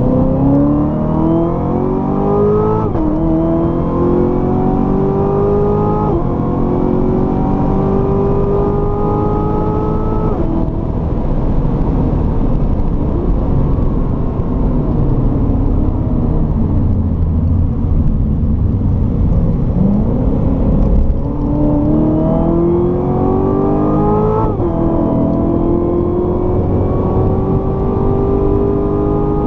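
Chevrolet Corvette C7 Z06's supercharged V8 pulling hard on track, its pitch climbing and dropping back at three upshifts of the automatic gearbox. It then runs at lower revs for several seconds before accelerating again through two more upshifts near the end.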